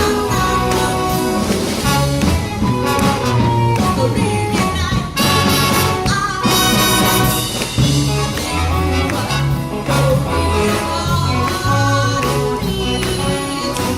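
Amateur big band playing a swing-style jazz number live, with brass, a steady beat and a moving bass line.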